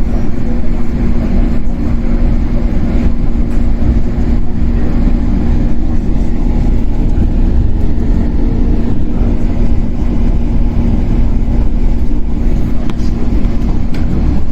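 JNR-built 115-series electric multiple unit motor car running at steady speed, heard from inside the car: a continuous low rumble of wheels on rail with a steady traction-motor and gear hum.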